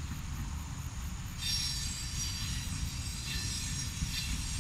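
Red electric train running past at a distance with a steady low rumble; about a second and a half in, high squealing tones from its wheels set in and carry on.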